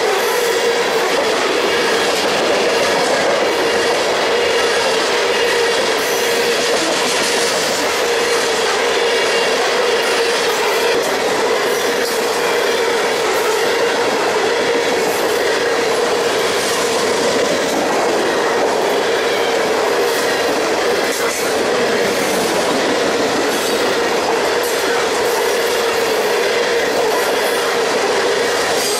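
Freight train's open-top hopper cars rolling steadily past close by: continuous rumble and rattle of steel wheels on the rail, with a steady whine from the wheels.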